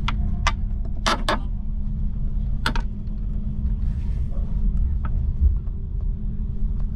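Running noise inside a DB IC2 Twindexx double-deck Intercity coach: a steady low rumble with a constant low hum. A few sharp clicks and creaks come in the first three seconds, two of them close together about a second in.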